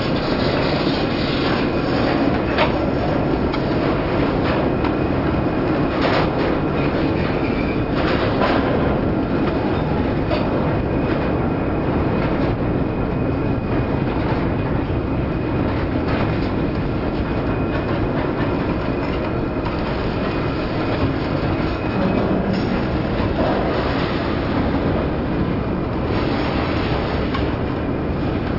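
Freight train cars rolling past, steel wheels on rail making a steady rumble with clacks now and then as the wheels cross rail joints, and a faint thin squeal at times.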